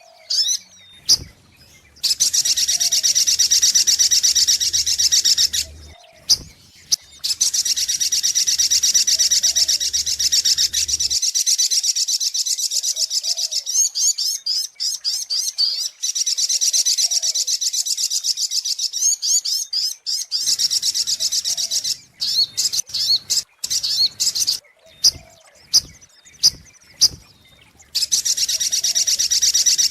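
Little spiderhunter (sogok ontong) calling in long, fast runs of repeated high, sharp notes, each run several seconds long, with short separate chirps in the pauses between runs. This is a recorded lure call used to attract the bird.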